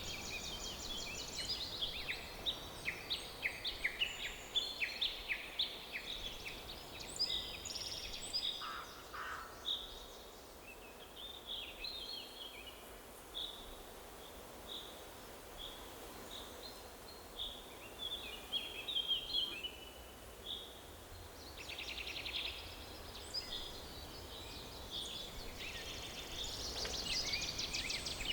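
Several songbirds singing and calling over a faint steady background hiss of forest ambience. The chorus is dense for the first several seconds, thins to sparse repeated chirps in the middle with a fast trill about two-thirds of the way through, and grows busy again near the end.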